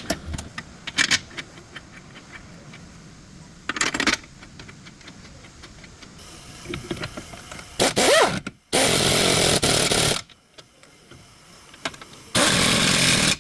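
Power tool run in short bursts, the longest about a second and a half, with scattered clicks and knocks of tool work between.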